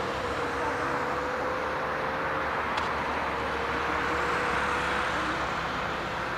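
Jet engines of a Boeing 737-800 airliner running, a steady rushing roar that swells a little toward the middle, with a faint whine slowly dropping in pitch.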